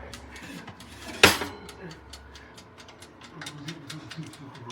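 Mechanical dial timer of a Hamilton Beach Easy Reach toaster oven ticking steadily, several ticks a second, as it counts down the bake. A single loud clack comes about a second in.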